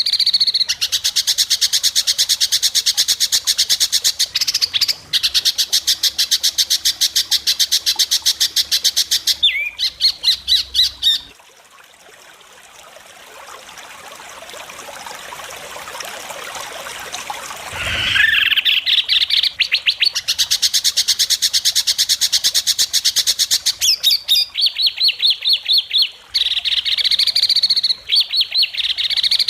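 White-rumped shama (murai batu) singing long runs of very fast, sharp repeated notes, the rapid 'besetan' bursts valued in contest birds. About a third of the way in the song drops out to a quieter, gradually rising hiss; then an upward-sweeping note leads back into the fast runs.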